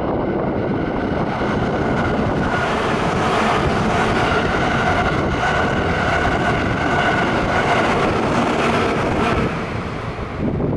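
Electric commuter train running past below on the tracks: a steady rushing of wheels on rail with a faint whine, building from about two seconds in and falling away near the end. Wind buffets the microphone throughout.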